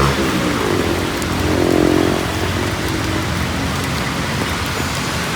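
Steady rain falling on a city street: a dense, even hiss, with a brief humming tone about two seconds in.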